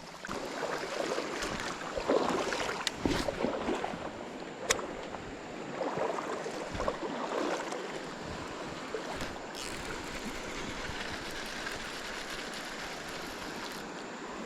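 River water: irregular splashing and sloshing with a few sharp knocks for the first several seconds, settling into a steady rush of flowing water.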